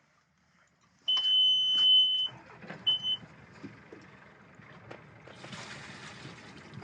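Sailboat engine control panel buzzer sounding as the ignition is switched on before starting the engine: one long steady high beep of a little over a second, then a short beep of the same pitch. Lower mechanical and wind noise follows at a moderate level.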